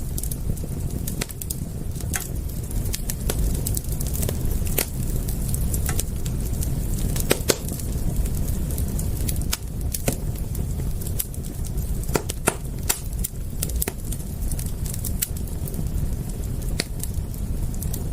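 Wood fire crackling: irregular sharp pops and snaps, the loudest about seven and a half seconds in, over a steady low rumble.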